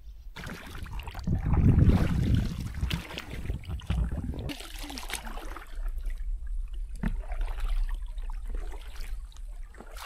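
Water splashing and trickling around a paddled boat, with scattered knocks, under a low wind rumble on the microphone that is heaviest about two to four seconds in.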